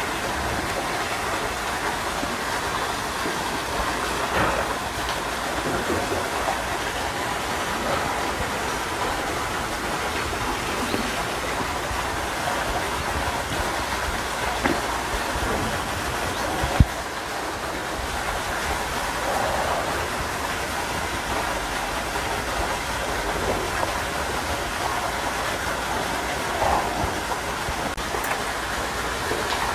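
Steady rain falling, with a few faint clinks and one sharp click about seventeen seconds in.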